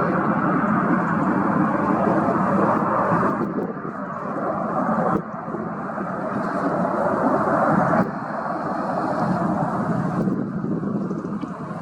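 Jet roar from the Airbus A330-343's Rolls-Royce Trent 700 engines as it departs. It is a loud, rushing rumble that drops suddenly twice and eases off toward the end.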